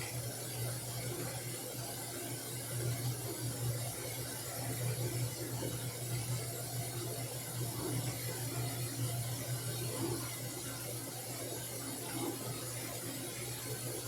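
Washing machine running: a steady low hum with a soft even noise over it.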